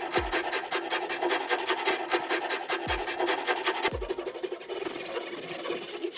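Rapid back-and-forth rasping strokes of hand abrasive work, filing or scrubbing, on a part of an antique wine pump being restored, about seven strokes a second. About four seconds in, the strokes blur into a steadier rasp.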